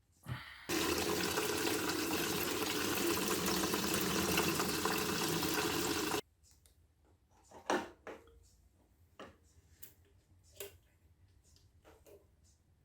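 A steady stream of liquid pouring, which cuts off abruptly about six seconds in. It is followed by a few faint, scattered clicks and knocks.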